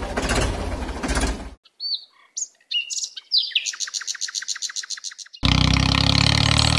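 Steady engine noise that cuts off after about a second and a half, then birds chirping: a few separate whistled chirps and a fast run of repeated chirps. About five and a half seconds in, a loud engine starts running steadily.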